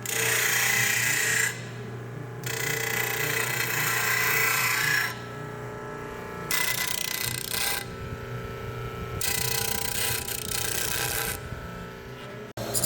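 Power tool working metal in four passes of one to three seconds each, with quieter gaps between them, over a steady low hum.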